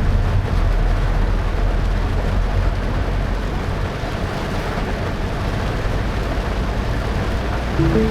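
A car driving on a wet road in heavy rain: a steady low rumble with an even hiss of tyres and water. A short pitched sound comes just before the end.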